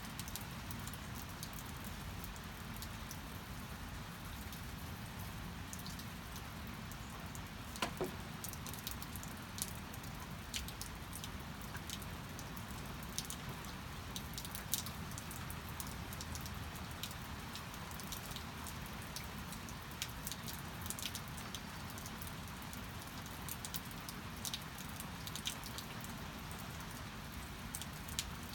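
Steady rain with scattered drops tapping. One louder knock comes about eight seconds in.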